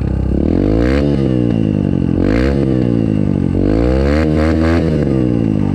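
Yamaha TT-R125 single-cylinder four-stroke dirt bike engine revved hard several times, its pitch rising and falling with each blip of the throttle, during a burnout attempt.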